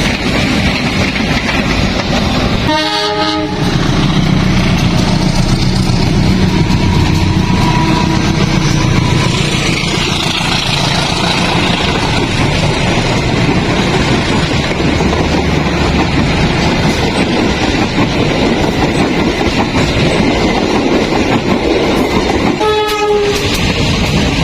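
A train passing close by with a loud, steady rumble and wheel clatter. Its horn gives two short blasts, one about three seconds in and one near the end.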